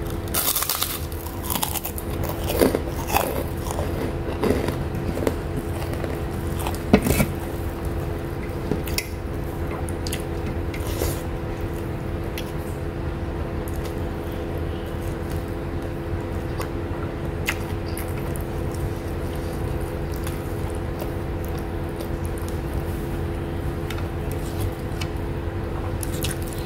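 Crisp keropok crackers being bitten and chewed close to the microphone: sharp crunches, thickest in the first several seconds, then thinning to occasional quieter chewing sounds. A steady low hum runs underneath.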